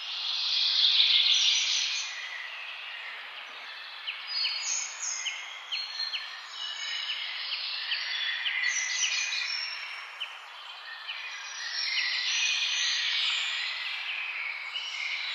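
Birds chirping and calling over a steady hiss, with quick runs of short chirps in the middle.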